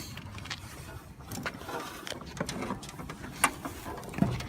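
Sharp clicks and clunks from a winch's free-spool lever being worked, the loudest a little past three seconds in.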